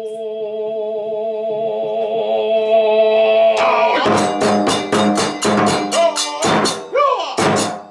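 Kagura ensemble music: one long held pitched note, then a rapid run of drum and cymbal strikes about halfway through, with two more strikes near the end.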